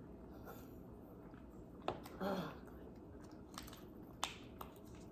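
Quiet chewing and table sounds, with a few sharp clicks from a hard-to-open package or container being worked at: one about two seconds in and a few more near the end. A short murmur of a voice comes just after the first click.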